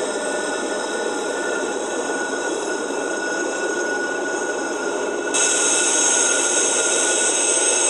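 Norfolk Southern freight train rolling past, the diesel locomotives giving way to freight cars, with a steady thin high wheel squeal over the rumble of the wheels. About five seconds in, a high hiss suddenly grows louder.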